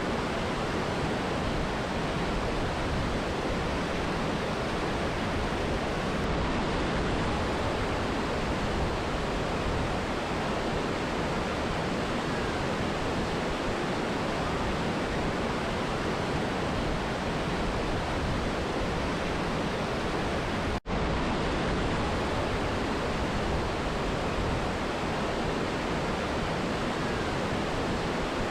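Steady rush of a mountain river and waterfall, an even unbroken wash of water noise. It drops out for a split second about three quarters of the way through, then resumes unchanged.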